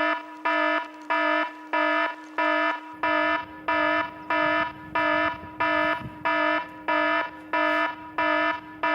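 Electronic alarm beeping in an even, repeating pattern, about three beeps every two seconds, over a steady lower tone.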